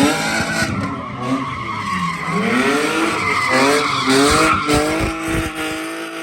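A car being driven hard on the spot: its engine revs rise and fall in several quick throttle blips, then hold a steady high note near the end, over tyres squealing and skidding on pavement.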